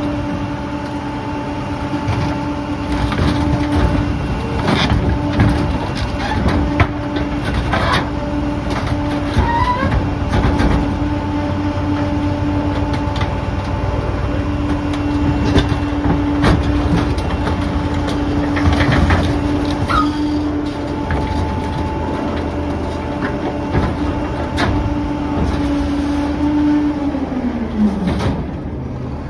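Refuse truck running with its engine held at raised speed and a steady whine, while debris clanks and crunches. Near the end the engine speed falls away and then climbs again.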